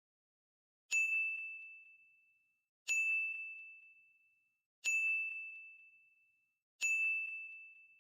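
A bell-like ding sound effect, struck four times about two seconds apart, each a single high ringing tone that fades out before the next.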